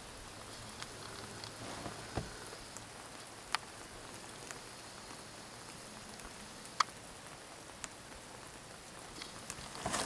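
Steady hiss of precipitation falling in a snowstorm, with a few sharp ticks scattered through it and a louder rustle near the end.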